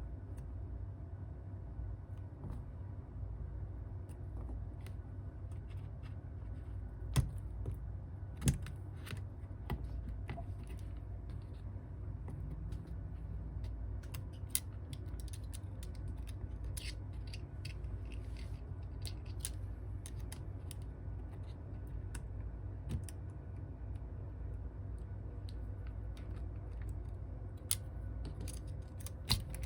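Scattered small clicks and taps of hand tools on a smartphone's parts during a repair, two of them louder about seven and eight and a half seconds in, over a steady low hum.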